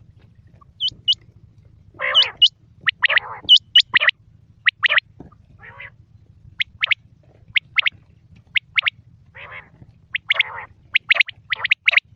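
Quail calling: a run of short, sharp high notes, many in quick pairs and coming faster toward the end, mixed with a few harsher rasping calls.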